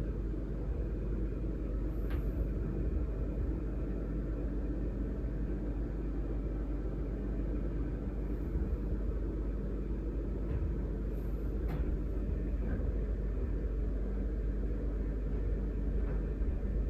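Steady low rumble with a faint hum, and a few faint ticks about two seconds in and twice about eleven to twelve seconds in.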